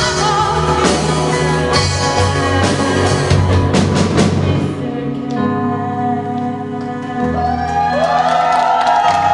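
Live band playing a song with a singer: a drum kit beats for the first few seconds, then the drums drop out and the band holds sustained chords over bass notes, with the voice rising again near the end.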